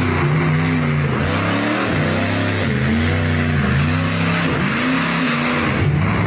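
Tracked mega mud truck's engine revving up and down over and over, its pitch rising and falling every second or so.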